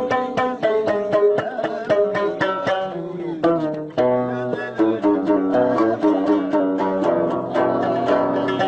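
Amazigh folk music: a loutar, the plucked Moroccan lute, playing a quick run of plucked notes without singing.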